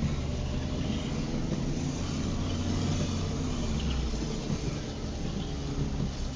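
Car being driven in the rain: steady engine hum under a constant hiss of rain and wet road noise.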